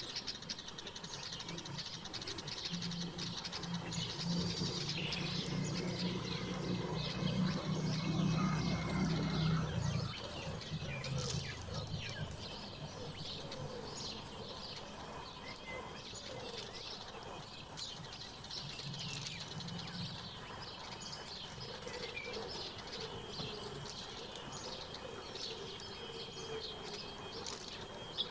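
Many small birds chirping and twittering in quick short calls. A low rumble rises under them in the first half and fades out about ten seconds in.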